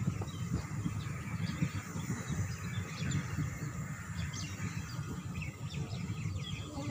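Low rumble of a train running slowly, heard from inside the coach, with birds chirping over it.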